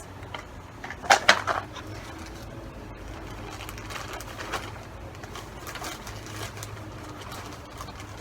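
Small rocks dropped into a sensory bottle, clattering in a quick cluster about a second in, followed by a few faint clicks.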